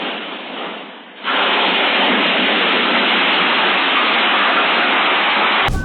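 Steady rushing of water, like heavy rain or a downpour: fainter at first, jumping much louder about a second in, then cutting off suddenly near the end.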